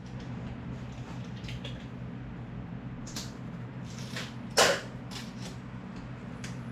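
A few scattered knocks and clicks from lumber and tools being handled, with one sharp, loud knock about four and a half seconds in, over a steady low hum.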